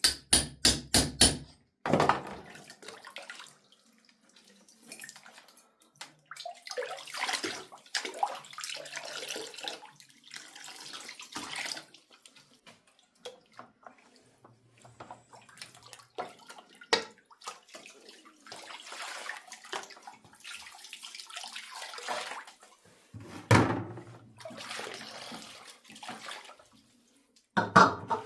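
Water running and splashing in irregular bursts with short gaps, with a few knocks mixed in. A rhythmic tambourine-backed music ends about a second and a half in.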